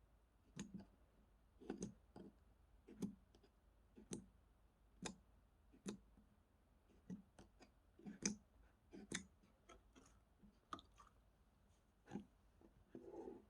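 Strawberry slime being pressed and squished by hand, giving sticky clicks and little pops about once a second.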